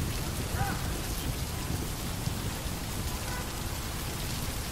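Steady rain falling, drops splashing on wet ground.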